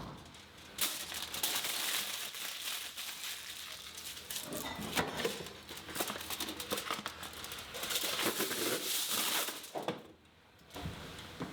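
Crinkling and crumpling of a thin wrapping sheet being handled: a dense run of small crackles and rustles that pauses briefly near the end.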